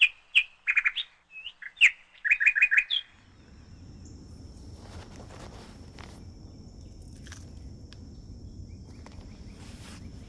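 Small bird chirping: quick series of sharp, high chirps for about three seconds, then it cuts off suddenly. After it comes a low, steady background hum with a faint high, steady whine and a few soft clicks.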